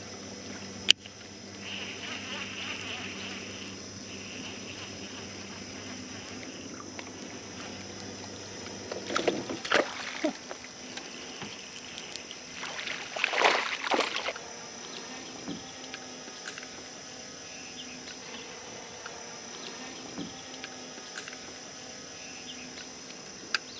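Outdoor lake ambience on a small fishing boat: steady insect buzzing over a faint low hum. There is a sharp click about a second in and two brief rushing, splashy noises around ten and fourteen seconds.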